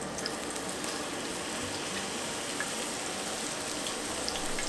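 Sliced onion frying in hot olive oil on an iron griddle: a steady sizzling hiss with a few faint pops, as the oil is heated on to season the plate.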